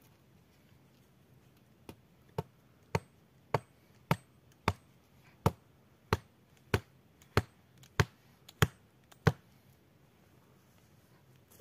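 Blade chopping into wood in a steady run of about thirteen sharp blows, a little under two a second. The blows start about two seconds in and stop shortly before the end.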